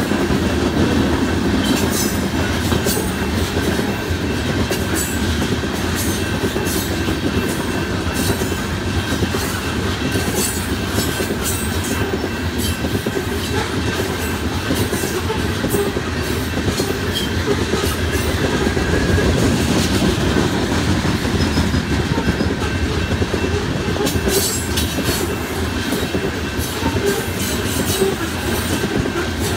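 Loaded coal hopper cars of a long freight train rolling past: a steady heavy rumble with irregular clicking and clacking of steel wheels over the rail joints. A thin steady high tone runs through it.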